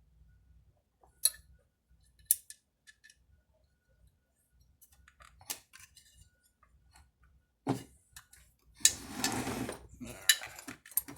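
Hand tools and small metal chainsaw parts being handled during reassembly: scattered sharp metallic clicks and clinks, a knock, and a second or so of scraping rattle about nine seconds in.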